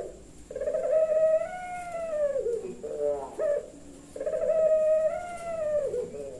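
Puter pelung dove cooing: two long drawn-out coos, each swelling slightly in pitch and then falling away at the end, with a few short broken notes between them.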